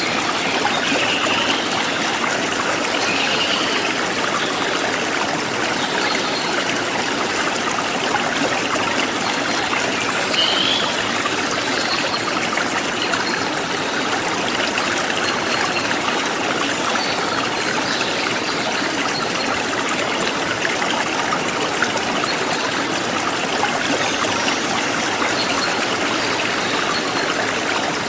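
Forest stream flowing steadily, a constant rush of water, with a few short, faint, high bird chirps now and then.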